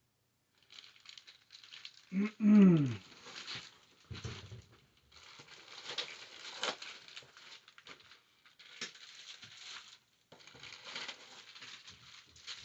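Packaging being handled during an unboxing: irregular rustling and crinkling with small knocks. A short falling vocal sound, like a murmured exclamation, comes about two seconds in.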